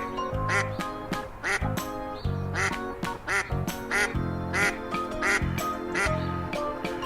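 Domestic duck quacking repeatedly, a short call about once a second, over light background music.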